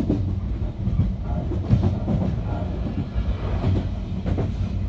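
Odakyu electric commuter train running, heard from inside its rear cab: a steady low hum and rumble, with the wheels knocking over rail joints and points about six times at uneven intervals.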